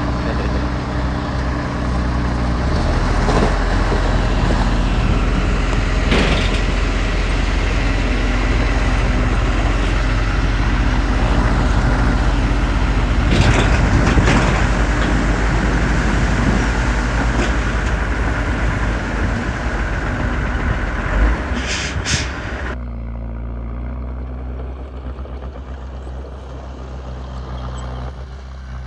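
Heavy diesel engine of earthmoving machinery running steadily under load, with a few knocks and clanks. About three-quarters of the way through, the noise cuts off suddenly and leaves a quieter, steady engine hum.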